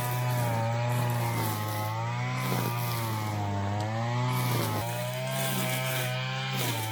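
Two-stroke string trimmer (weed whacker) engine running at high revs. Its pitch wavers slightly as it cuts, and it begins to wind down at the very end.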